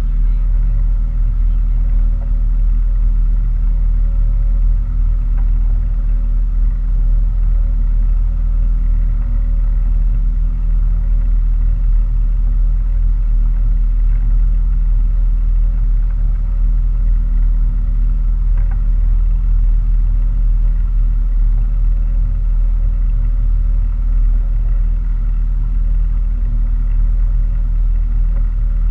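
Boat engine running steadily at a constant speed: an unchanging low drone with a steady hum on top.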